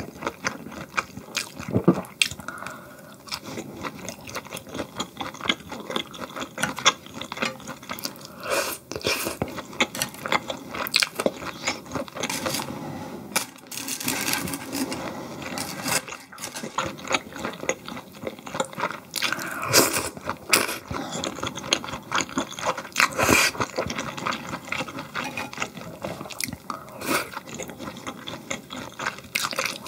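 Close-miked eating: chewing and biting food, with frequent irregular clicks and scrapes.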